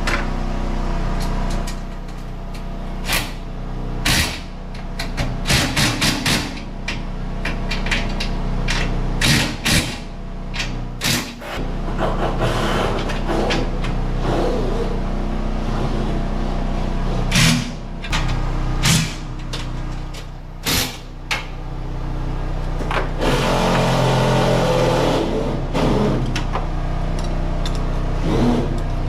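Garage door installation work: a run of irregular sharp metal clanks and knocks from door parts and hand tools over a steady low hum, with a few seconds of denser rattling noise a little past the middle.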